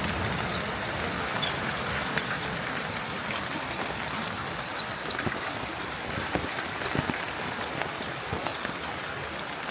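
Steady rain hiss with scattered drops tapping close by.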